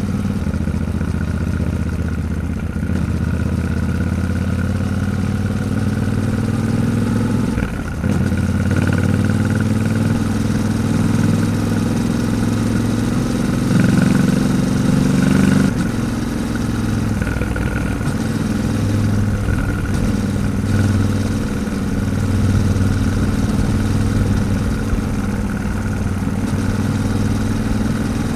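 Yamaha Ténéré 700's 689 cc parallel-twin engine running while riding at speed, with wind and road noise. The engine note dips briefly about eight seconds in, rises steadily in pitch as it pulls through the gear, then drops suddenly near the middle at an upshift.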